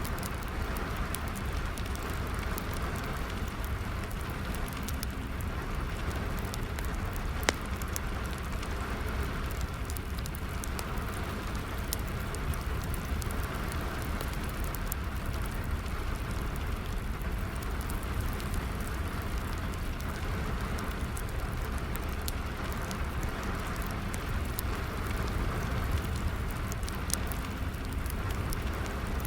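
Steady rain falling together with a wood fire crackling, its many sharp pops scattered throughout, one louder pop about seven seconds in.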